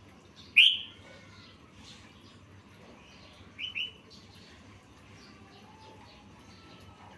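Yellow-vented bulbul (trucukan) calling: one loud, sharp chirp about half a second in, a quick double chirp a few seconds later, and fainter short calls in between.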